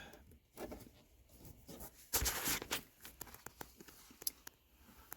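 Faint handling noises: a few small clicks and knocks, with one brief scraping rustle about two seconds in.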